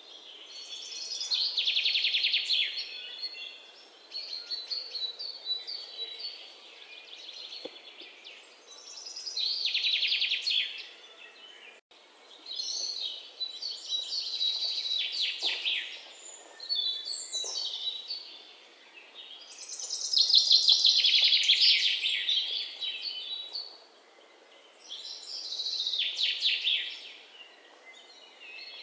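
Songbirds singing: about five loud bouts of rapid chirping trills, each two to three seconds long, with quieter chirps between them.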